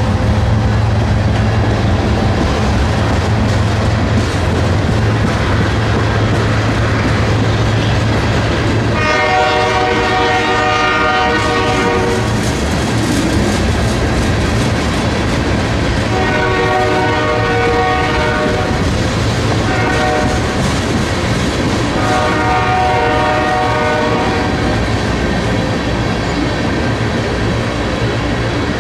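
Canadian Pacific freight train passing: tank cars and covered hoppers rolling by with steady wheel clatter on the rails. The diesel locomotives' low rumble fades about nine seconds in. The lead locomotive's horn then sounds long, long, short, long, the standard grade-crossing warning.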